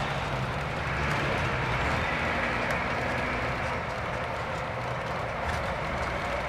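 Steady cabin noise inside a Scania K410 coach under way: the engine's even hum under a constant wash of road and tyre noise.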